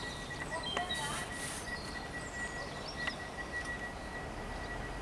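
Birds chirping and calling in short notes and quick glides, over a faint low rumble and a thin steady high tone.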